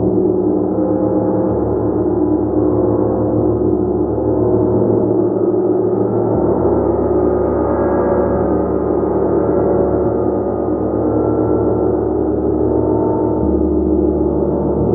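A gong being played continuously, building a dense, sustained wash of overlapping overtones at an even loudness with no single strike standing out.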